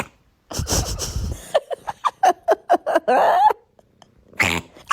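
A cat making odd vocal sounds: a rough, noisy burst, then a quick run of short chirps, a longer raspy call, and another sharp burst near the end.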